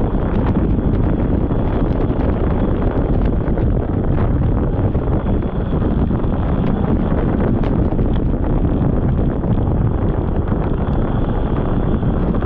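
Polaris snowmobile running steadily along a trail, its engine and track noise buried under heavy wind buffeting on the microphone, with a faint steady high whine.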